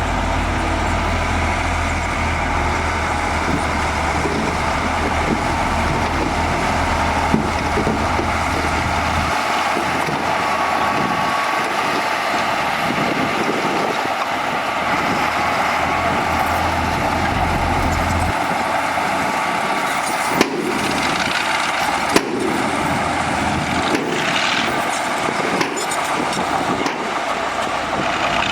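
Heavy earthmoving machinery running steadily, with diesel engine noise and a low rumble that drops away partway through. A few sharp knocks come through, around a third of the way in and twice about three-quarters of the way in.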